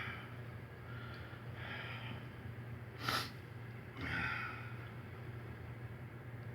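A man's breathing over a steady low hum: a short sharp sniff or snort about three seconds in, then a breathy exhale about a second later.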